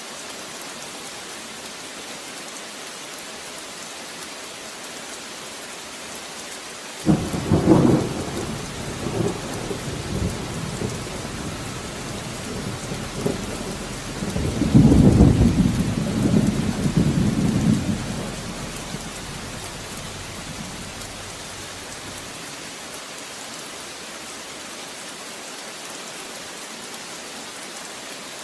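Steady rain falling, with a thunderclap about seven seconds in: a sudden sharp crack followed by rolling rumbles that swell again to a loud peak about halfway through and fade away by about two-thirds of the way in.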